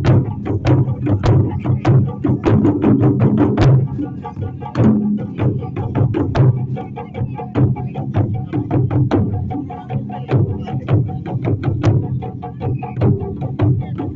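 Japanese taiko drums played in a fast rhythm, sharp strikes coming about five a second over a steady low ringing.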